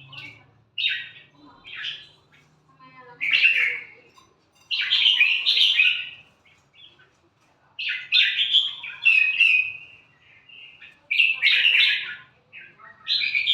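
Hand-reared red-whiskered bulbul chick giving shrill, rapid chirping begging calls in about eight bouts, some brief and a few running on for a couple of seconds.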